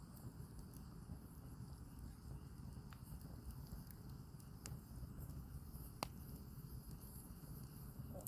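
Small wood campfire burning: a low steady rumble of the flames with a few sharp crackles and pops of the firewood, the loudest about six seconds in.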